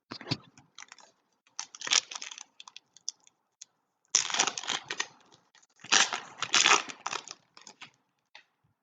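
Trading card pack wrappers being torn open and crinkled by hand, in irregular bursts of crackling, the longest about four and six seconds in.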